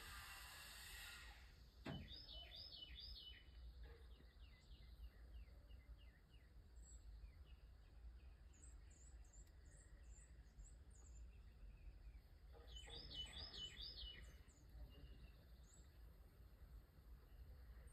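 Near silence with faint birdsong: two short runs of quick chirps about two seconds in and again about thirteen seconds in, with thin high twitters between, and a single faint knock just before the first run.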